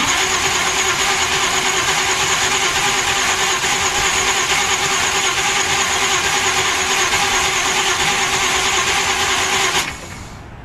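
Loud vehicle exhaust noise held at one steady pitch, with no revving up or down, cutting off abruptly near the end.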